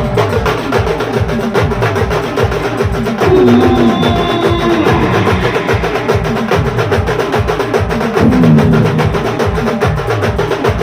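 Live band music with fast, dense drumming under a steady held note, and a melodic instrument playing louder falling phrases about three seconds in and again near eight seconds.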